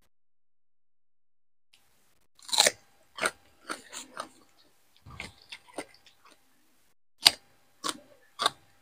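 Close-miked chewing and mouth sounds of a person eating by hand: a string of short, wet clicks and crunches starting about two and a half seconds in.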